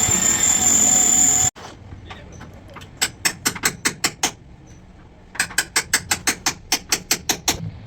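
A high-pitched power tool runs at speed and cuts off abruptly about a second and a half in. It is followed by two runs of rapid mechanical clicks, about six a second, like a hand tool being worked.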